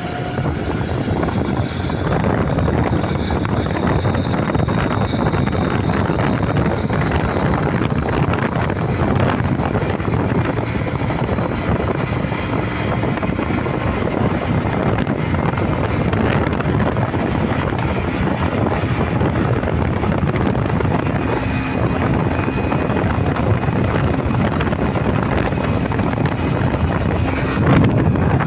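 Motorcycle running steadily at speed, its engine noise mixed with heavy wind rush on the microphone.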